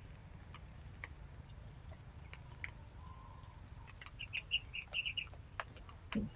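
A bird chirping a quick series of short notes around the middle, over scattered faint clicks and a low steady rumble.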